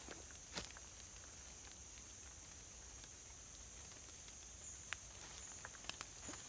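Forest insects holding a steady, high-pitched drone, with a few scattered soft ticks from the wet forest floor.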